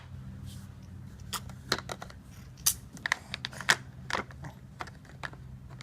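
Plastic toys being handled, giving a run of light, irregular clicks and taps.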